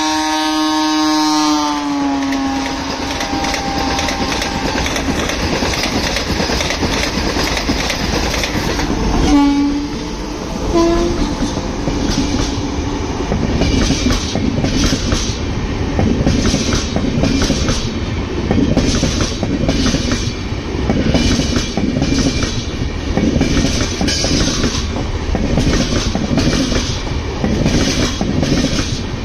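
Electric passenger trains passing at speed. A train horn sounds and falls in pitch as it goes by, ending about two seconds in, and a second short horn comes around ten seconds in. Then a steady rail rumble follows, with wheels clattering over rail joints about once a second.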